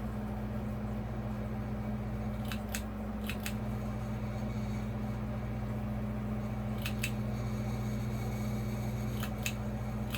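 Encon Casanova ceiling fan motor running with no blades on, giving a steady hum. Pairs of sharp clicks come about four times. It runs noisier without its blades fitted.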